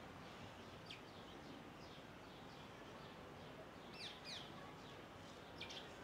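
Small bird chirping: a few short, sharp downward-sweeping chirps, one about a second in, two close together around four seconds, and a quick pair near the end, over faint steady background noise.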